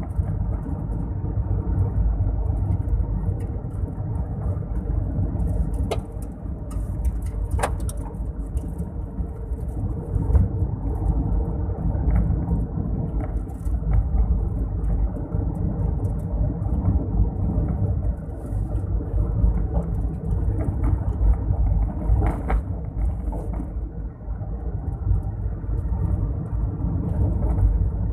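Car being driven: a steady, low engine and road rumble, with a couple of sharp clicks partway through.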